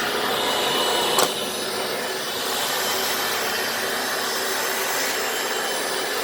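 Hoover FloorMate wet floor cleaner running at full speed just after switch-on, a steady motor whine with high and low held tones. A single sharp click about a second in.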